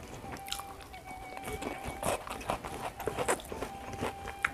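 Close-up mouth sounds of eating carp and rice: wet chewing and smacking, with many small crackly clicks.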